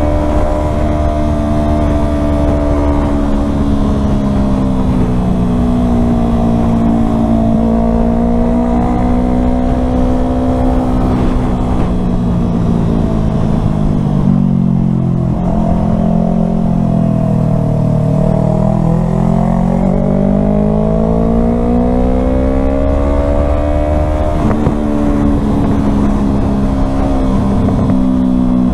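Yamaha R3 parallel-twin motorcycle engine running under way, its note sinking slowly to its lowest a little past halfway, then climbing back up.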